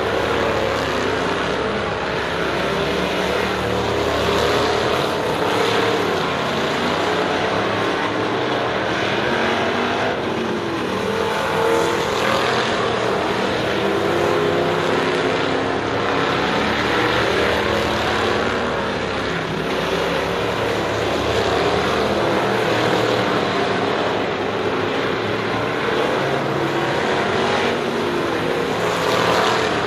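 Several race cars running together on a track, their engines at high revs, with the pitch rising and falling as they pass and circle.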